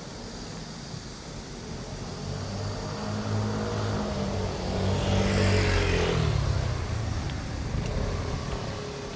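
A motor vehicle passes close by on the street. Engine and tyre noise build for a few seconds, peak about halfway through, then fade, and the pitch drops as it goes past.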